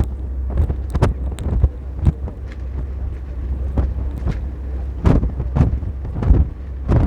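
Strong wind buffeting the microphone: a steady deep rumble broken by frequent irregular thumps and crackles.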